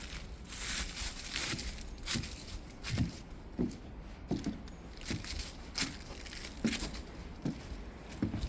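Footsteps crunching over dry ground, one step roughly every three quarters of a second, each with a soft thud and a rustling crunch.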